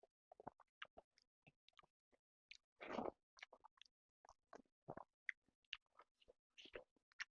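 Close-up chewing of chicken and rice: irregular wet mouth clicks and smacks, with one longer, louder bite or crunch about three seconds in.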